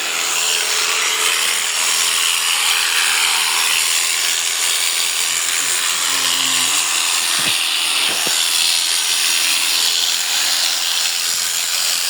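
Electric sheep shears running steadily with a loud, even buzz, with two sharp clicks a little past the middle.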